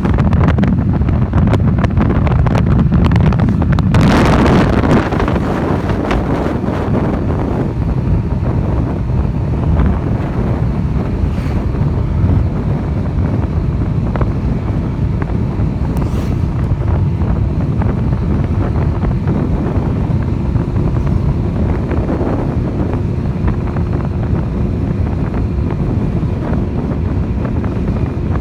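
Wind buffeting the microphone of a riding motorcycle, a loud steady low rumble, with a stronger gust about four seconds in.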